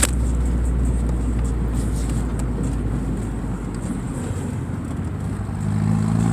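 A car driving, with a steady low engine and road hum. There is a sharp click right at the start, and near the end the engine's pitch rises slowly as it speeds up.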